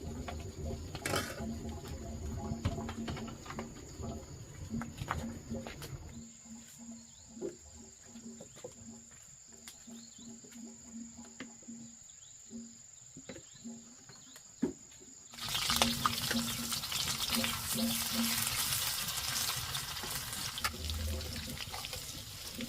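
Light knocks and clicks under a steady high insect tone, then about two-thirds of the way through a loud sizzle starts suddenly as food hits hot oil in a pan and keeps frying.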